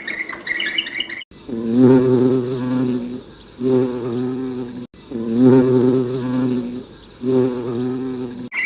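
A flying insect buzzing in two bursts, a low droning hum with an even pitch. The same short recording plays twice in a row, with abrupt cuts at the start, middle and end.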